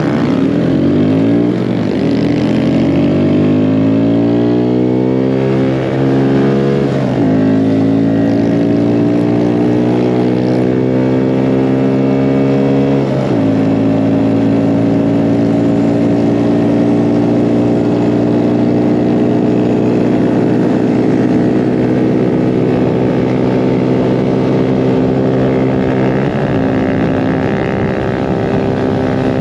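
Small single-engine mini bike under hard acceleration. The engine note climbs, drops sharply twice as the bike shifts up, then holds steady at high revs at cruising speed, easing off briefly and picking back up near the end.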